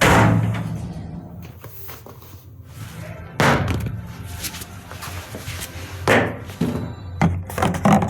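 Knocks and slams: one hard slam at the start that rings out for about a second, another about three and a half seconds in, then several lighter knocks near the end, over a steady low hum.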